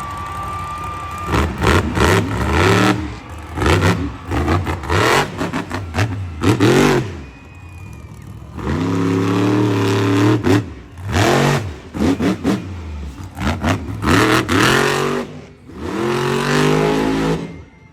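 Monster truck engine revving hard in a quick series of bursts, its pitch sweeping up and down with each blip, with a longer held run about nine seconds in. The engine drops off abruptly just before the end.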